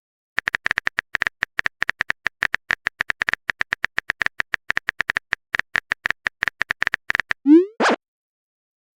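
Phone-keyboard typing sound effect: a quick, irregular run of short clicks, several a second, stopping about seven seconds in. It is followed by a short rising pop, a message-sent notification.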